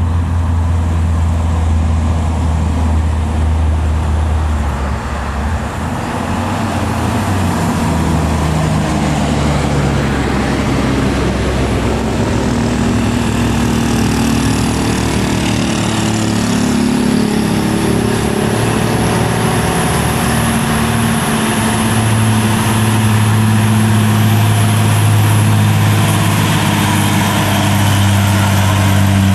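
Heavy truck diesel engine running under load on a steep climb. Its note dips about five seconds in, wavers up and down through the middle, then settles into a steady low drone for the last several seconds.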